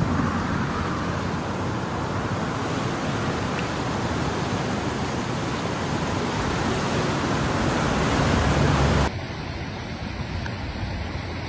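Steady rushing noise of fast-moving floodwater. About nine seconds in it cuts abruptly to a thinner, quieter rush.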